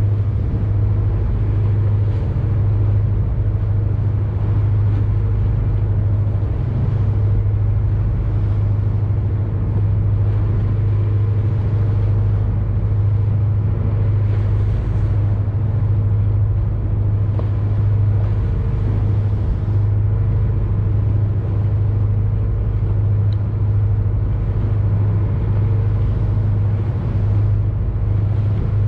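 Boat engine running steadily: a constant low drone with a strong deep hum that does not change.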